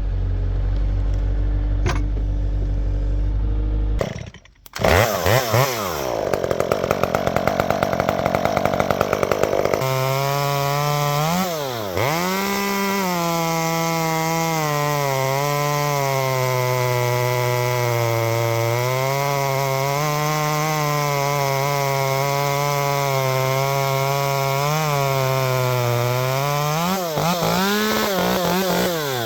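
Stihl two-stroke chainsaw fitted with a custom handmade exhaust, running. For several seconds its pitch sweeps up and down as it is revved. It then holds a high, steady speed with small wavers and a few brief dips, and cuts off right at the end.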